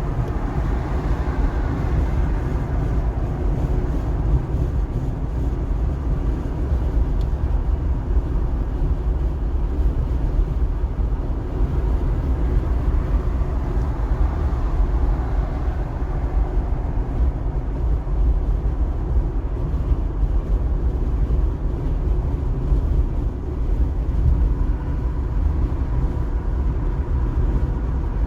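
Steady road noise from a car driving on a wet highway: a low rumble with tyre hiss that swells briefly about a second in and again around the middle.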